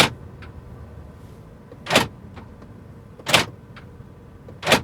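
2019 Mercedes G500 central door locks shooting home, four sharp mechanical clacks about 1.4 seconds apart as the car is locked and unlocked. This is the G-Class's loud locking clack, which the owner calls a really strong sound.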